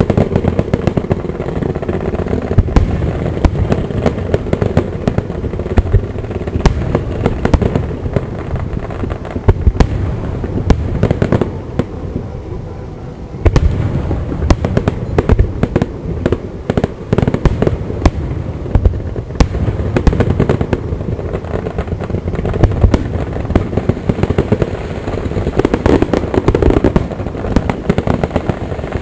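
Aerial fireworks going off in rapid succession: a dense run of booms and crackling bangs, with a short lull about twelve seconds in before the bangs start again.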